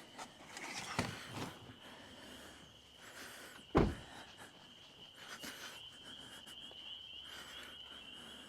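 Camp gear being handled and packed: a couple of knocks about a second in and a heavy thump near four seconds. Behind them is a steady high-pitched insect trill.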